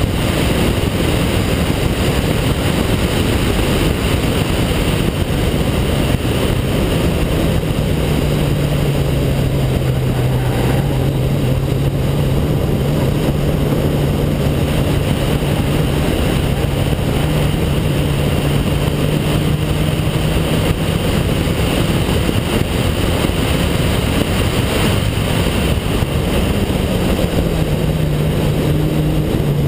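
Car engine running under load as the car is driven through a cone course, its note holding steady for long stretches, rising briefly and falling again near the end, mixed with heavy wind noise over the microphone.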